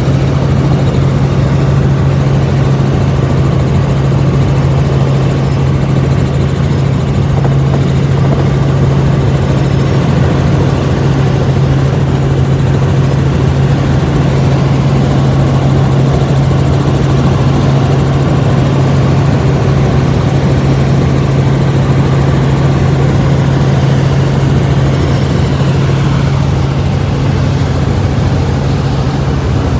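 Helicopter in flight heard from inside the cabin: the loud, steady drone of rotor and engine, dominated by one low hum that never changes.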